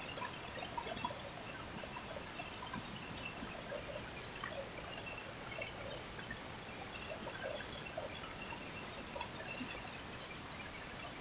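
Heavy rain falling: a steady hiss with many small scattered drips and splashes.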